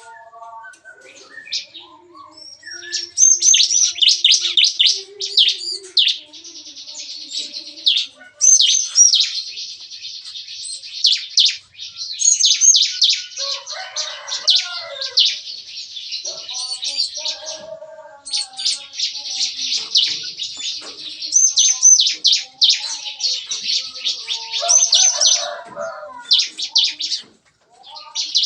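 Caged ciblek kristal (prinia) songbirds singing lively, rapid-fire song: long runs of fast, high, rattling notes, repeated burst after burst with short breaks. Lower, softer chirps from other birds come in here and there.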